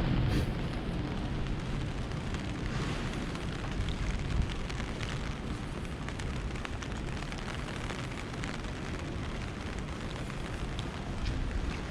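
Steady hiss of rain with a low rumble underneath and scattered sharp taps of raindrops.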